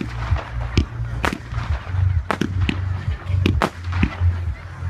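Fireworks going off in a display: about eight sharp bangs at uneven intervals, several in quick succession, over a steady low rumble.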